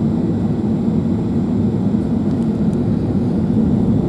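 Steady low rumble of an Airbus A380 heard from inside the passenger cabin: engine and airflow noise with no change in pitch or level.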